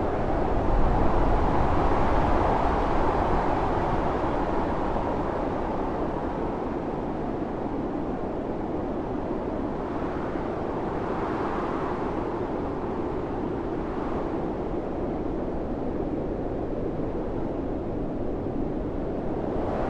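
Howling wind of a snowstorm, a steady low rush that rises and falls in gusts, swelling about a second in, again about halfway through, and once more near the end.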